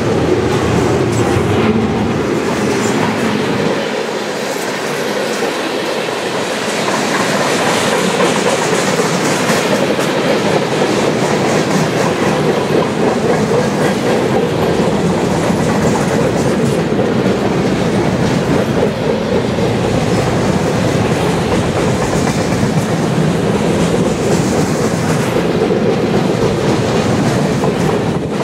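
Freight cars rolling past close by: double-stack container well cars and then empty centerbeam flatcars, with steady, loud wheel-on-rail rolling noise.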